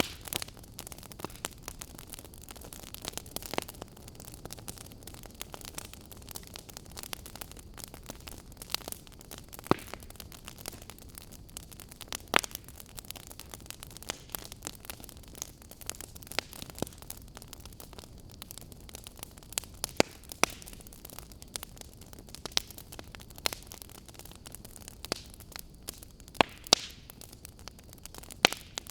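Fire burning in a fireplace, crackling: irregular sharp pops and snaps over a steady soft hiss, with a few louder snaps scattered through.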